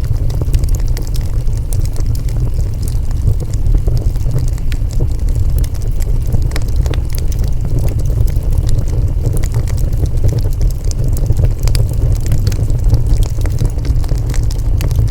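Wood fire burning, with a steady low rumble of flames and scattered sharp crackles and pops.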